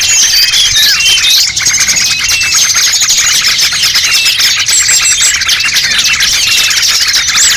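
Dense chorus of many small songbirds chirping and trilling at once, a loud, unbroken tangle of overlapping high calls and quick whistled glides: a bird-lure (pikat) recording for calling small birds.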